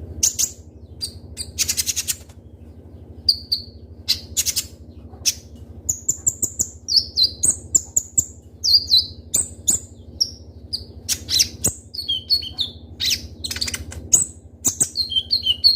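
Kolibri ninja (konin) sunbird singing: rapid series of sharp, high chirps and short falling notes, with a steady low hum underneath.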